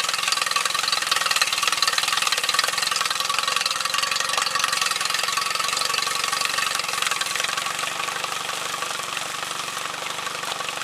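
Yamaha 25 hp four-stroke outboard running at idle just after starting, with Salt-Away being flushed through it; it settles slightly quieter about two-thirds of the way through.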